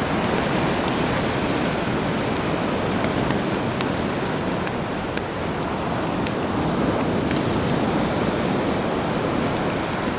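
Sea surf washing steadily, mixed with a campfire crackling in scattered sharp pops.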